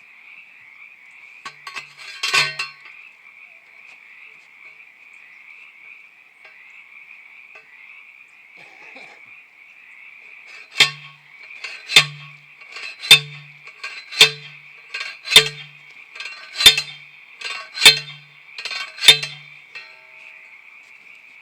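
Metal-on-metal strikes, typical of a T-post driver on a steel T-post: one clang about two seconds in, then eight ringing strikes about once a second through the second half. A steady high-pitched chorus runs underneath.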